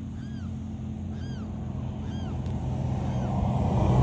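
A bird calling repeatedly, short arched whistled notes about once a second, over a steady motor drone that grows louder toward the end.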